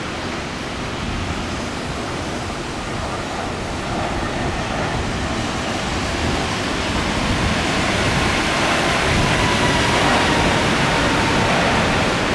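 Steady rush of heavy rain in a thunderstorm, growing louder from about four seconds in, with a faint high whine joining it in the second half.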